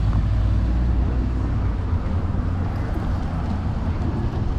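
Street noise from a moving electric scooter, with a steady low rumble of wind on the handlebar-mounted camera's microphone mixed with passing traffic.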